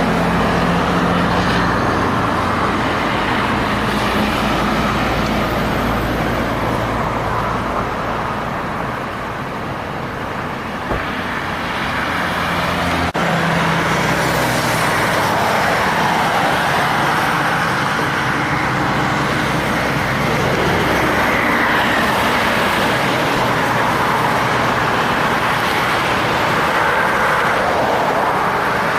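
Road traffic with heavy diesel trucks passing close by: engines running steadily over loud tyre and road noise. About halfway through a sharp click is heard, and the engine sound changes suddenly.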